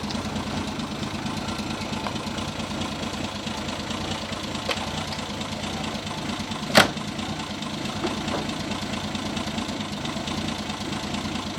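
Car engine idling steadily, with a single sharp click about seven seconds in.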